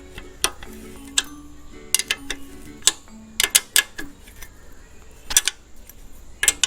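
Irregular sharp metallic clicks of a hand tool working as the screw on a Royal Enfield front fork's shocker cover is tightened, with soft background music underneath.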